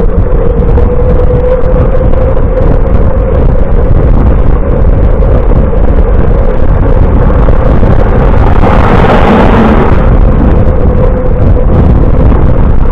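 Loud wind rumble and road noise on the microphone of a moving bicycle ride, with a steady hum underneath. A brief louder rush of hiss comes about nine seconds in.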